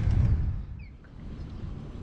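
Low rumble of wind buffeting the microphone, loudest in the first half second and then easing off. Two short falling chirps, a bird, come just under a second in.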